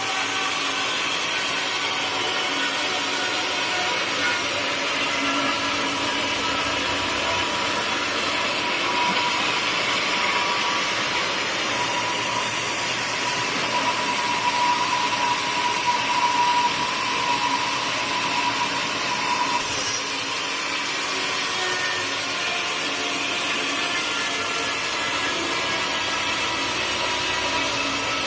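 Sawmill saw cutting through a teak log, a steady rasping noise under a whine that grows louder in the middle and cuts off suddenly about twenty seconds in.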